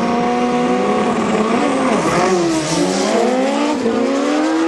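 Two drag-racing motorcycles accelerating hard down the strip off the launch. The engine note climbs, drops sharply about two seconds in at a gear change, then climbs again.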